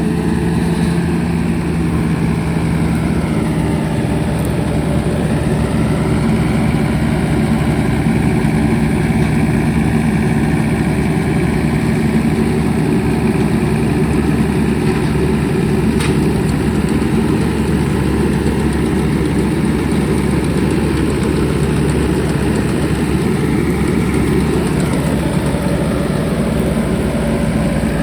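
John Deere 5039 diesel tractor engine running steadily under load while driving a straw reaper, mixed with the reaper's machinery. The pitch dips slightly and recovers a few seconds in and again near the end, as the engine holds its RPM under the load.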